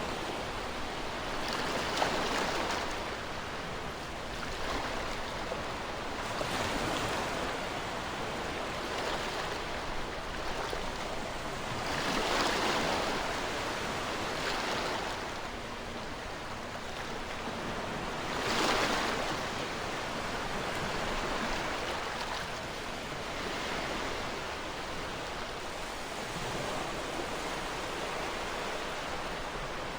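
Ocean waves washing onto a shore in a continuous rush of surf that swells and fades every few seconds, with a stronger wave breaking about two-thirds of the way through.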